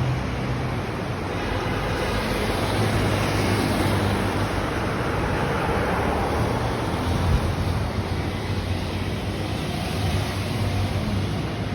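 Steady rumble of motor traffic, with engines running under a wash of road noise.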